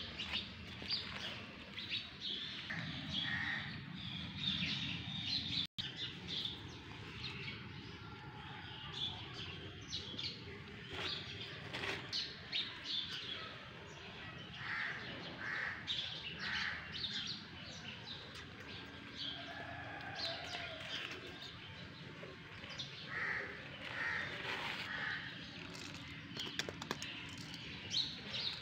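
Birds chirping and calling, many short calls scattered throughout.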